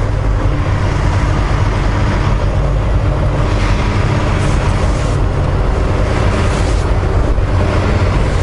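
Volvo VNL860 semi truck's diesel engine running steadily at idle, a constant low hum.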